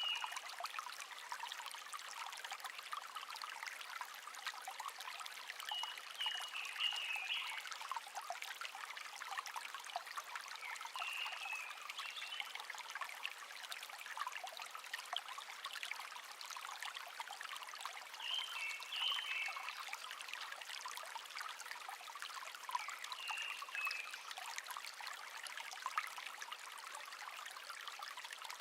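A small stream trickling and babbling steadily over stones. A songbird gives a short high chirping phrase about every five or six seconds.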